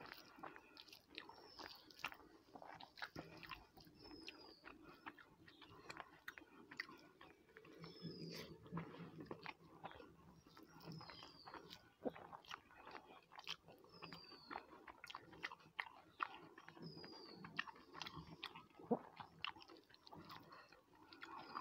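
Faint, close-miked chewing and lip smacking as rice and curry are eaten by hand, with small wet clicks from fingers mixing rice on the plate. A short, high, falling chirp sounds every few seconds.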